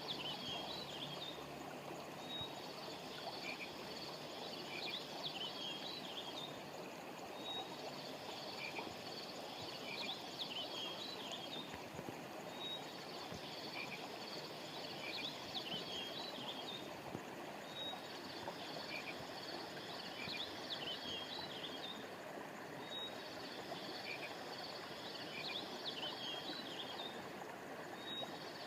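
Steady rush of flowing river water, with high chirping and trilling calls from small animals. The calls come in the same pattern about every six and a half seconds.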